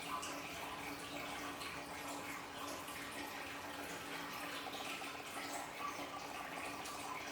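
Water from a small aquarium waterfall trickling and splashing steadily, with a steady low hum underneath.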